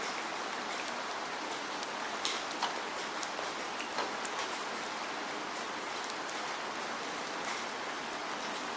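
Steady rain: an even hiss of rainfall with many separate drops ticking sharply on a surface, thicker in the first few seconds.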